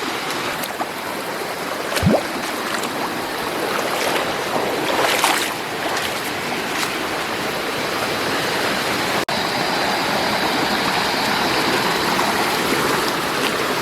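Rushing water of a forest stream running over small waterfalls, a steady hiss. A brief rising sound comes about two seconds in, and after a momentary dropout a little past the middle a faint steady high-pitched whine sits over the water.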